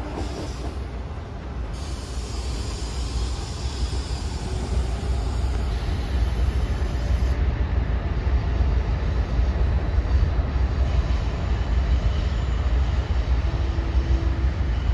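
Passenger train running on the tracks: a low steady rumble that builds over the first several seconds and then holds, with a faint high wheel squeal a few seconds in.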